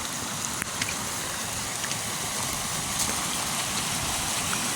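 Heavy rainwater runoff rushing steadily through a driveway culvert after a couple of days of rain, with a few faint ticks.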